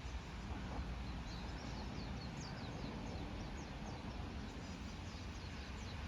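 A bird calling in a rapid series of short, high, falling notes, over steady low background noise.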